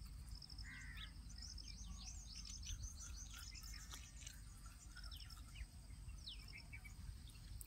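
Small birds chirping faintly, many quick high chirps scattered through, over a steady high-pitched tone.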